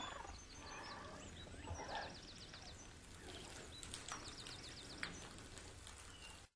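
Faint forest ambience with a bird calling in two quick runs of short, repeated high notes, about two seconds in and again about four seconds in.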